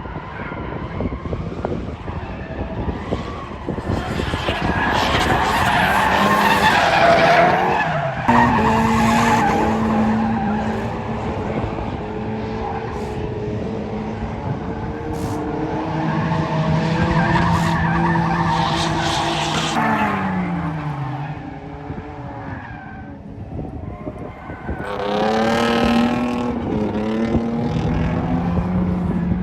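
A car drifting: the engine revs rise, hold and drop again several times while the tyres squeal and skid.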